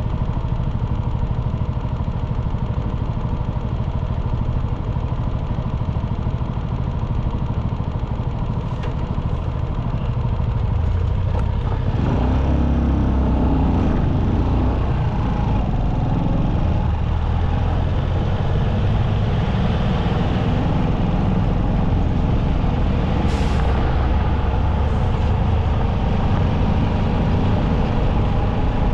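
Motorcycle engine running on the road amid traffic noise. About twelve seconds in the sound grows louder and deeper, and there is a brief high hiss near the end.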